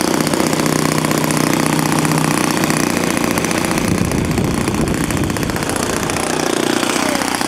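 RC model airplane motor and propeller running steadily.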